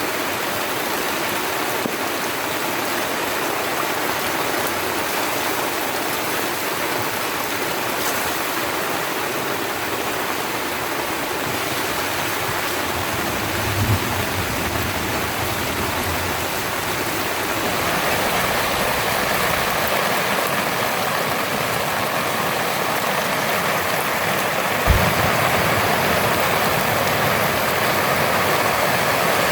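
Steady heavy rain, growing louder and fuller about two-thirds of the way through, with two brief low thumps, one about halfway and one near the end.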